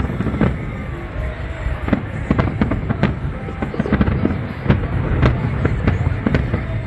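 Fireworks display: a rapid, irregular series of sharp bangs and cracks over a continuous low rumble of shells bursting.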